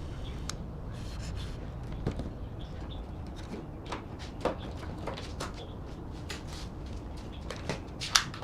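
Scattered light clicks and knocks over a steady low rumble, with a couple of sharper, louder knocks near the end.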